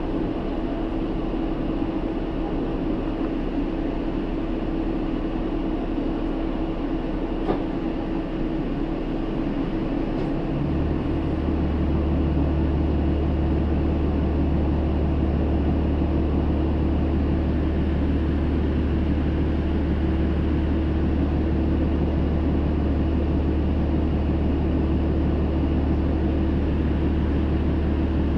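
Hino Rainbow II city bus heard from inside the cabin, its diesel engine and drivetrain running steadily with road noise. About ten seconds in, a deeper, stronger engine drone comes in and the sound grows slightly louder, then holds steady.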